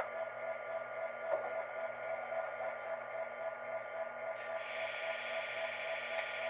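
Recorded diesel engine idle of an MTH Premier SD60M model locomotive, played as a steady, even drone through the model's small onboard speaker. About two-thirds in, a hiss joins the idle.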